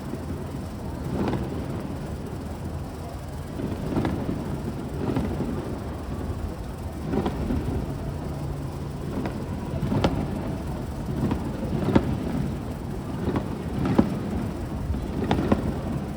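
Aerial fireworks bursting in a rapid series, about one every second or two, with each bang trailing off in a rumbling echo over a steady low rumble.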